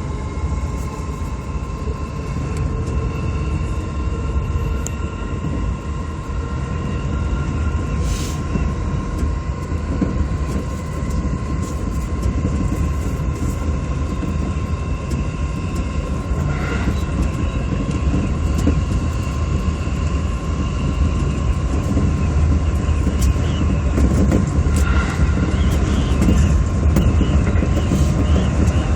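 Running noise of a JR Yokohama Line electric commuter train heard from inside the car: a steady low rumble with a few steady whining tones. It grows gradually louder, with an occasional brief click.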